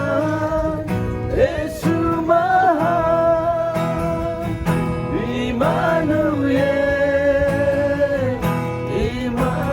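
A praise and worship song sung with guitar accompaniment, the voice holding long, wavering notes.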